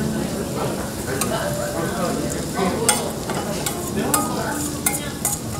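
Food sizzling in a hot pan while being stirred, with scattered scrapes and clicks of a utensil against the pan.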